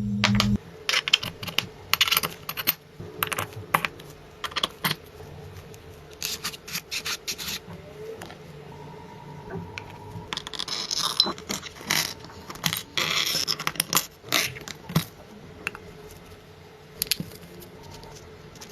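Small metal parts clicking, clinking and scraping as they are handled and set down, in irregular taps and short clusters.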